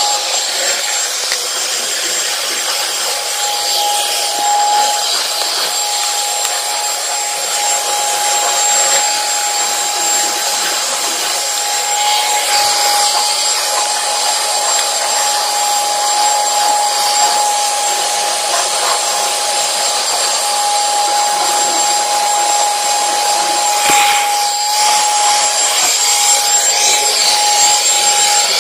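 Commercial vacuum cleaner running steadily with a constant high whine, its nozzle rubbing over carpet.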